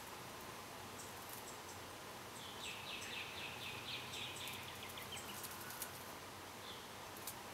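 A bird's rapid rattling call, about five notes a second, starting a few seconds in and fading out after about three seconds, over a faint steady hiss with a few light clicks.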